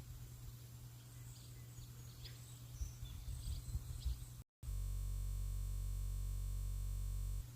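Faint, scattered bird chirps over a low rumbling background. About halfway through, the sound cuts out for a moment, then gives way to a steady low hum.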